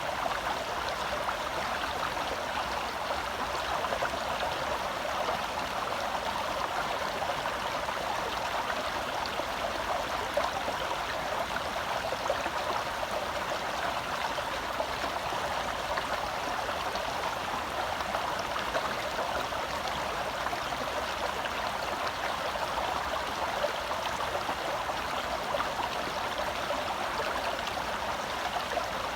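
A small forest stream flowing and babbling over rocks, a steady rush of water without pause.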